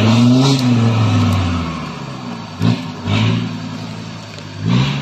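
Off-road Jeep's engine revving under load as it claws up a steep, muddy bank out of a creek, the pitch rising and falling, with two short, loud bursts of throttle about halfway through and again near the end.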